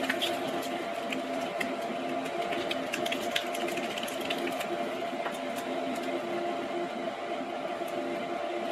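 A steady hum from a small motor, with light clicks and rustles of handling over it, mostly two to four seconds in.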